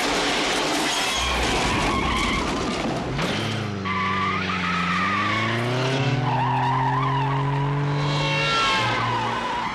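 Car chase sound: a car engine revving hard, its pitch climbing, dropping back and climbing again as it goes up through the gears, with tyres squealing and skidding.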